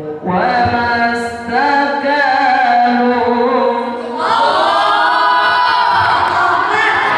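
Unaccompanied voices singing a slow, ornamented melody with long held notes; about four seconds in the singing becomes louder and fuller.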